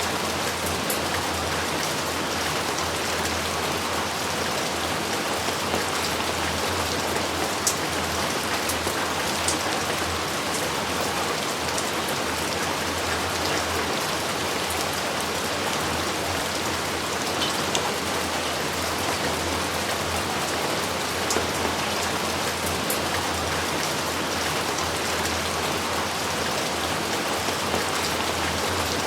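Steady heavy rain falling in a dense, even hiss, with an occasional sharper drop tick standing out.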